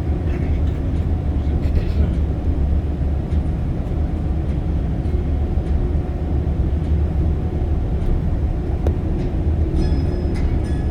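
Steady low rumble of a tour coach's engine and road noise, heard from inside the moving vehicle.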